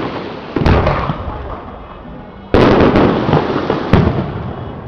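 Firecrackers going off in loud volleys of dense crackling. Fresh volleys start suddenly about half a second and two and a half seconds in, with a sharp bang near four seconds.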